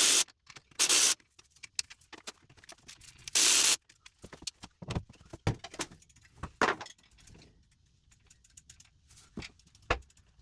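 Three short bursts of hissing spray in the first four seconds, then scattered small clicks and knocks of metal tools or parts being handled.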